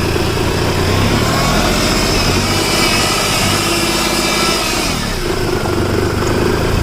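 Hyundai Eon's small three-cylinder petrol engine running just after a cold start, its revs rising a little and settling back about five seconds in. The engine has stood unused for about a year and its oil has gone thick.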